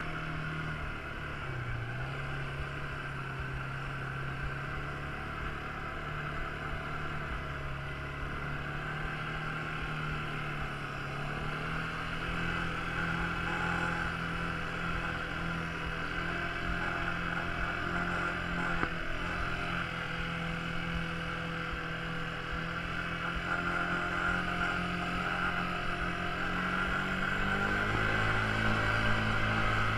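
Quad bike engine running steadily. Its engine speed steps up about twelve seconds in and again near the end, where it gets a little louder.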